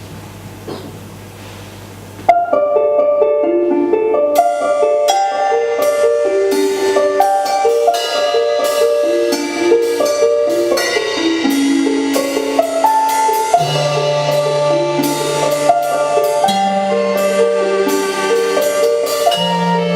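A low steady hum, then about two seconds in a piano-sounding keyboard starts a quick pattern of repeated struck notes, live instrumental introduction to a song. Long low bass notes join about two-thirds of the way through.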